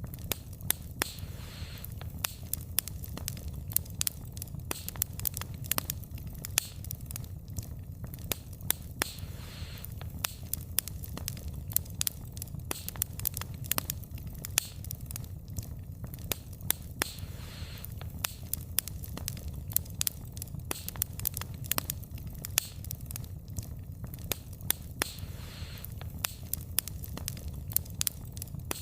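Wood fire burning, the logs crackling with many sharp snaps and pops over a steady low rumble of flame. A soft hiss swells up briefly every eight seconds or so.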